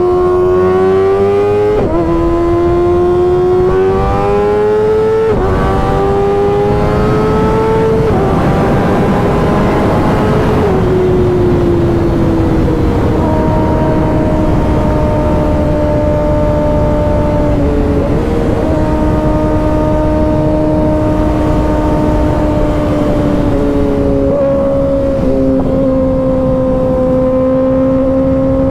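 2024 Kawasaki ZX-6R 636's inline-four engine, fitted with an M4 exhaust, accelerating through upshifts: the pitch climbs in each gear and drops back at each shift, about three times in the first ten seconds. It then settles into a steady cruise with the revs slowly easing off, over a constant rush of wind noise.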